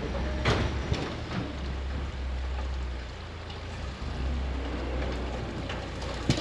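Off-road rig's engine running low as it crawls over rock and dirt, with a crackling of tyres and debris and a few sharp knocks about half a second and a second in.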